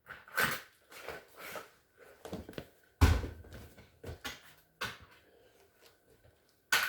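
Scattered clicks and knocks of objects being handled, with one heavier thump about three seconds in.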